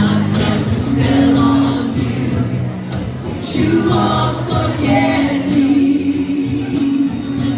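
Band music with singing. The voices hold long notes over the accompaniment, with sharp drum hits now and then.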